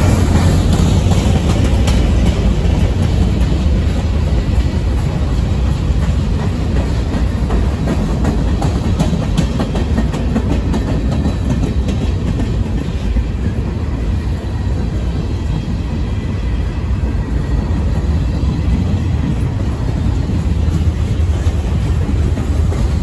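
Freight train cars rolling past loud and steady: a rumble of steel wheels on rail with continual clicking as the wheels cross rail joints.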